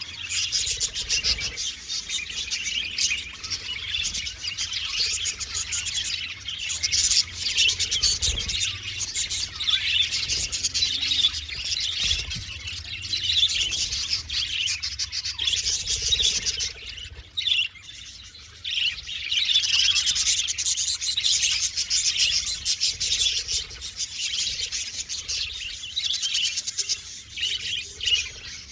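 Budgerigars chirping and warbling in a dense, continuous chatter, with a brief lull a little past the middle.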